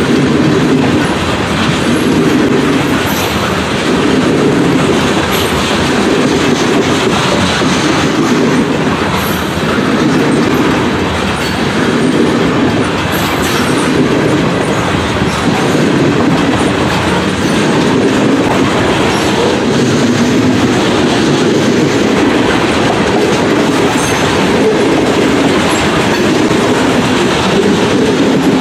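Freight train of tank cars rolling past close by: a steady rumble with the wheels clattering over the rail joints, swelling and easing about once a second.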